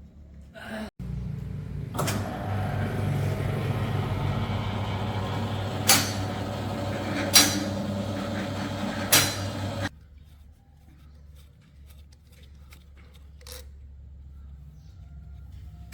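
A motor runs with a steady drone for about eight seconds, with three sharp clicks along the way, then cuts off suddenly.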